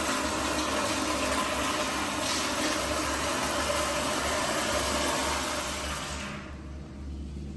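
American Standard Madera flushometer toilet finishing its flush: a steady rush of water through the bowl that dies away about six seconds in, leaving a low hum.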